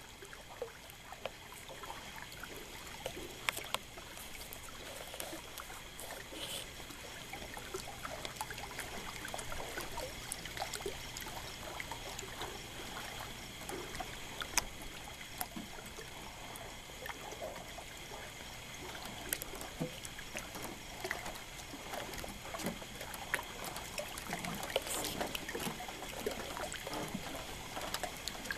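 Water lapping and trickling against the hull of a docked boat: a steady wash with many small, irregular splashes.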